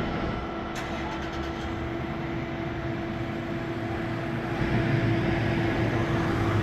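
Steady engine hum with a constant droning tone and low rumble, growing louder about four and a half seconds in.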